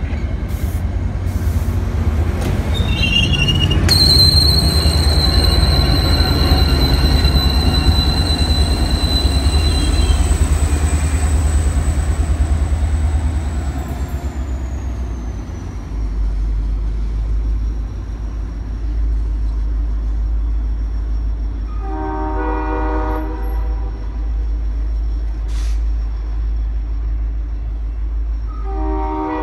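An MBTA commuter train's diesel locomotive and coaches roll past with a deep engine rumble. High-pitched wheel squeal runs for several seconds from about four seconds in. Later a train horn sounds twice, once for over a second and again at the very end.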